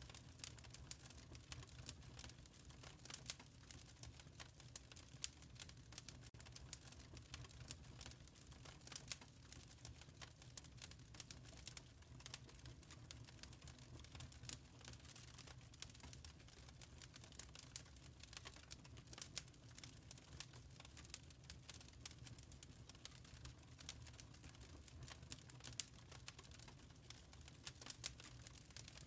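Wood fire crackling in a fireplace: faint, rapid, irregular small pops and snaps over a low steady rumble.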